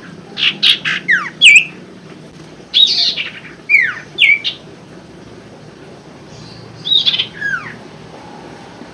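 Common iora (sirtu, cipoh) singing: three bursts of quick chirps and sharp whistles that slide steeply downward, a couple of seconds apart.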